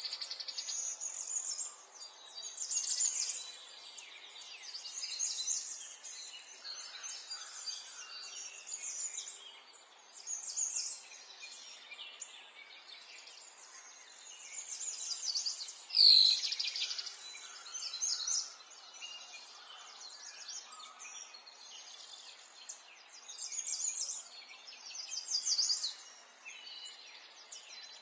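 Songbirds chirping in short repeated high phrases every couple of seconds, over a faint steady outdoor background hiss. One louder, sweeping call stands out a little past halfway.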